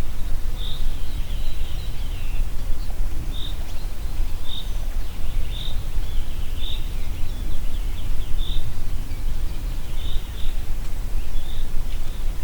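Wind blowing through a forest with a deep, uneven rumble. A bird repeats a short high note about once a second among fainter chirps.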